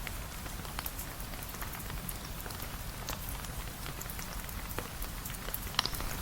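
Steady rain falling, a dense hiss peppered with scattered sharp ticks of drops, one louder tick near the end.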